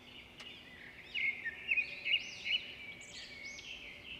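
Small birds chirping, many quick arched whistled calls overlapping, loudest between about one and three seconds in.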